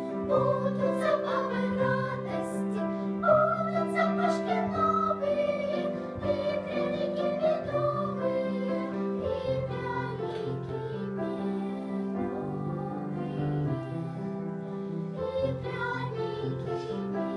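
A song sung with instrumental accompaniment: a voice carrying a melody over steady held notes below.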